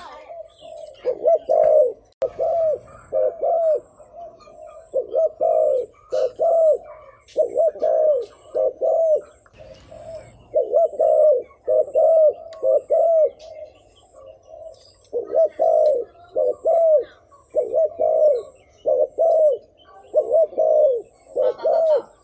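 Spotted dove cooing over and over, short low coo notes coming in quick clusters with brief pauses between them.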